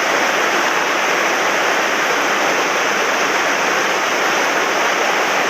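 Swollen mountain stream rushing in high water after heavy rain: a loud, steady rush of fast-flowing water.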